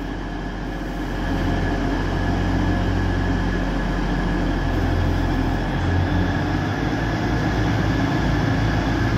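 A Class 180 diesel multiple unit pulling out under power: a steady drone from its underfloor diesel engines, growing a little louder about a second in and then holding steady.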